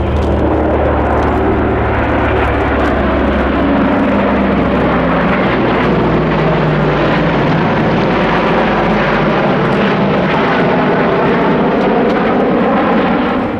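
Formation flyby of the Super Constellation, with its four Curtiss-Wright R-3350 18-cylinder radial piston engines and propellers, together with the Patrouille Suisse's F-5E Tiger II jets. The result is a loud, steady drone whose low tones fall in pitch as the formation passes.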